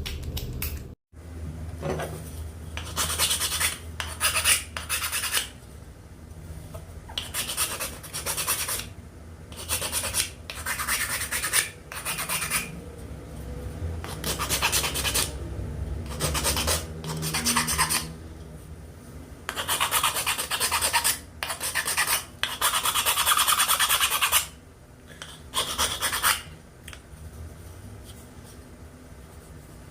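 Wood being worked by hand with an abrasive tool such as a rasp or sandpaper: irregular scraping strokes, each half a second to two seconds long, with short pauses between them.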